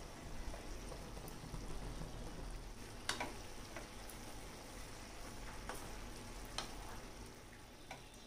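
Cabbage and tomatoes sizzling in a frying pan while being stirred with a spatula, with a handful of sharp knocks of the spatula against the pan, the loudest about three seconds in.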